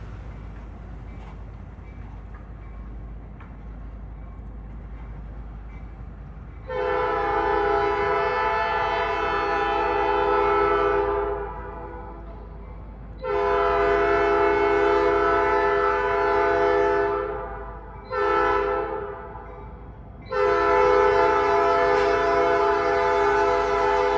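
Diesel locomotive's multi-chime air horn sounding two long blasts, one short and one long: the standard grade-crossing warning. A low engine rumble is heard before the horn starts, about six seconds in.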